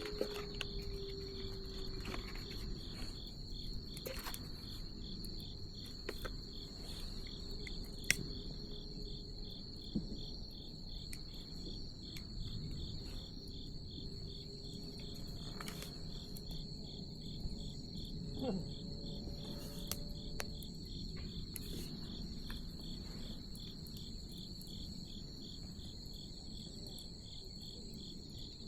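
Bonfire burning with a low rustling hiss and a few sharp pops, the loudest about eight seconds in, under insects chirping in a steady, fast-pulsing chorus.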